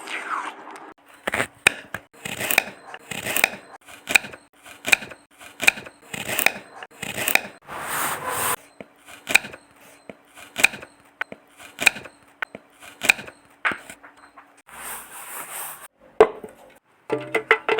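Knife cutting dragon fruit on a cutting board, in a steady run of short slicing strokes and knocks on the board, about one or two a second. After a pause near the end, a short scraping stretch and a few more knocks follow.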